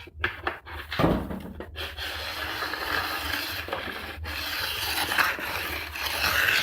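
A knock about a second in, then a file held in a base bevel guide scraping steadily along a ski's steel edge, working tip to tail and taking a little metal off.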